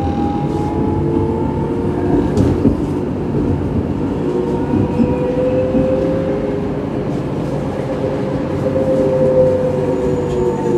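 Electric tram running along the track: its traction motors whine, rising in pitch over the first few seconds and sinking again near the end, over a steady rumble of wheels on rail.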